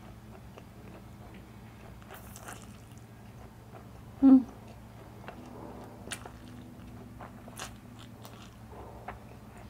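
A person eating spicy instant noodles with chopsticks: close-up chewing and wet mouth clicks from a mouthful of fire noodles. About four seconds in there is one short, loud mouth sound, much louder than the chewing.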